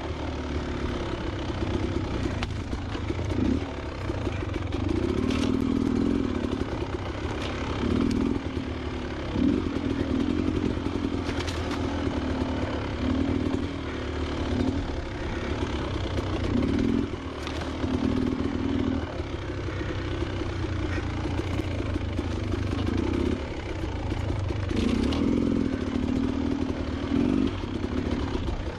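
A Beta Xtrainer 300's two-stroke engine running under a rider, its pitch rising and falling as the throttle is worked on and off. A few sharp knocks are scattered through it.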